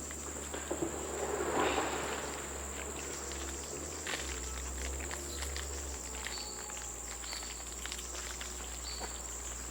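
A steady high-pitched insect drone, with scattered small clicks and a brief rustle about a second and a half in. Short high peeps repeat about once a second in the second half.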